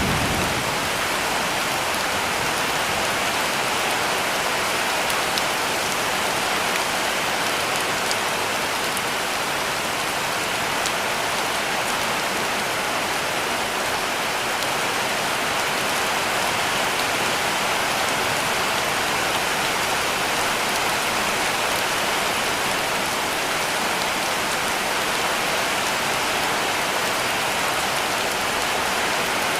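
Heavy rain falling steadily on a cabin roof: an even, unbroken hiss of dense drops.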